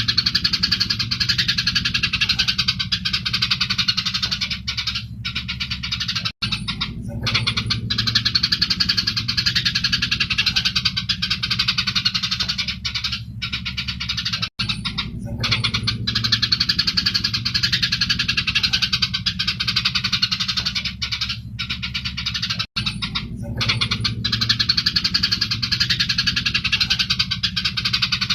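Dense, continuous chattering and scolding of Eurasian tree sparrows fighting, over a steady low hum. It is a looped recording that repeats about every eight seconds, with a brief cut at each seam.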